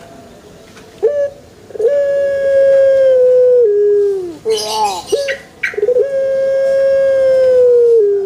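Male Barbary dove (burung puter) cooing: two long, drawn-out coos of about two seconds each, each holding one pitch, then stepping lower and falling away at the end. Between them, about four and a half seconds in, comes a short, rougher call.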